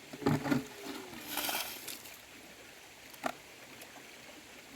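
Water splashing in shallow water: a couple of sharp splashes near the start and a hissing splash about a second and a half in, then a single short splash or knock a little after three seconds.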